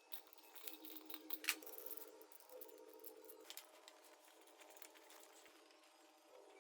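Faint, irregular light clicks and metallic ticks of small tools and parts being handled while a motorcycle carburettor is refitted.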